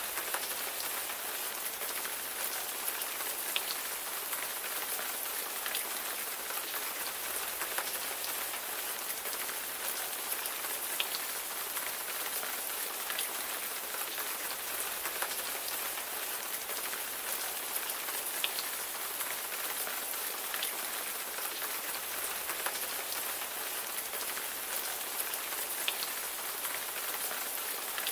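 Steady rainfall: an even hiss of rain with scattered individual drops ticking sharply on a surface.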